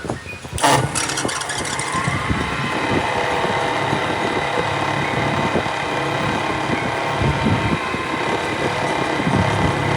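A machine motor starts abruptly about a second in and then runs steadily with a whine.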